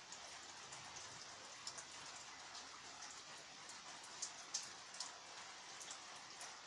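Rain falling steadily, a soft even hiss with scattered drops ticking sharply on a hard surface; a few louder drops land a little past the middle.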